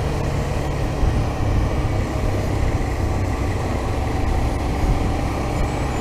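Suzuki V-Strom 650's V-twin engine running steadily under a low rumble of road and wind noise.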